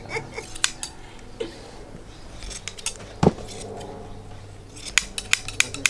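Hand blade shears snipping through sheep's wool: scattered sharp snips, a louder knock a little past three seconds in, and a quick run of snips near the end.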